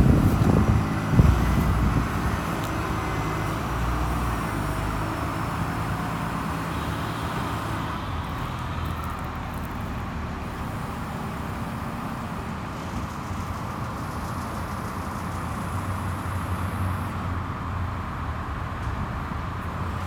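Truck engine of a 1996 Ford LN7000 crane truck running steadily, louder for the first couple of seconds.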